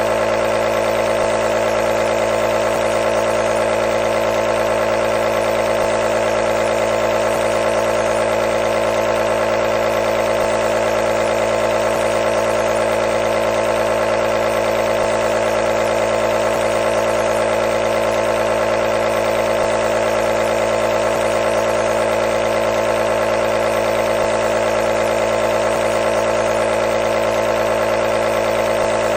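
A nebulizer running continuously: a steady, unchanging motor hum with a hiss over it.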